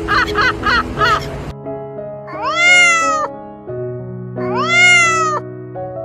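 A rapid series of short animal calls, about four a second, cuts off abruptly about a second and a half in. Then come two long animal calls, each rising and then falling in pitch, a couple of seconds apart, over soft background music with sustained notes.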